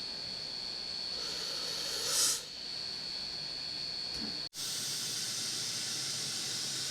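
Steam locomotive hissing steam steadily, with a thin high tone over it and a short, louder hiss about two seconds in. The sound breaks off sharply for an instant about four and a half seconds in, then the hiss carries on.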